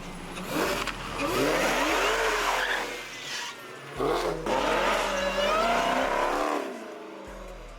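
A car engine revving up and down with tires squealing, in two long spells, the second starting about four seconds in.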